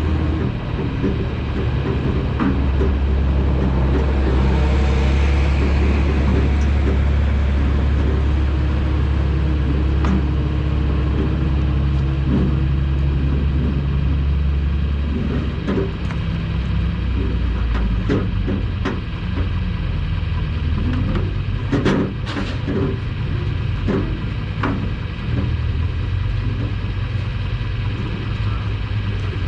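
Semi truck's diesel engine running steadily with a deep hum that eases off about halfway through, followed by a scatter of sharp knocks and clicks.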